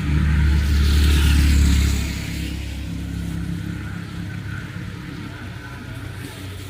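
A motor vehicle's engine running close by, loud for the first two seconds and then fading away.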